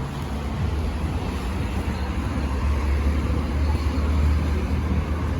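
Steady low rumble of a road vehicle in motion, swelling slightly about halfway through.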